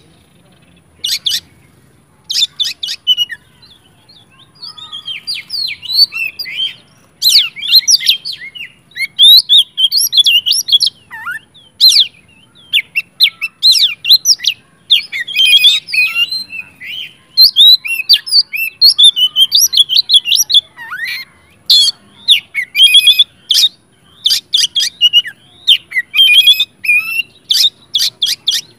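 Oriental magpie-robin (kacer) singing hard in rapid, varied chirps, whistles and trills. It is sparse for the first few seconds, then settles into a dense, almost unbroken run of song with short breaks. This is the continuous 'gacor ngeplong' song that keepers use to stir other magpie-robins into singing.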